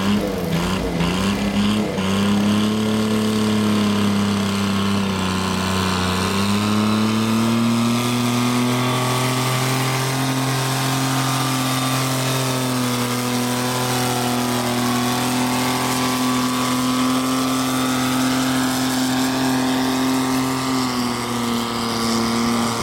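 Turbo-diesel garden pulling tractor's engine running hard under load on a pull. Its pitch wavers in the first few seconds, climbs about six to eight seconds in and holds steady and high, then drops near the end.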